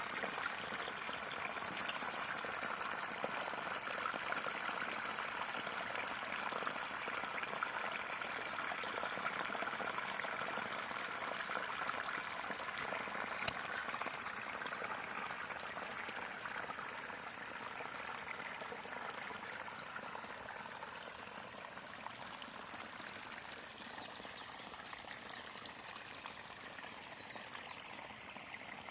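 Water trickling and running steadily, like a small stream, with a constant high-pitched hiss over it and a single sharp click about thirteen seconds in.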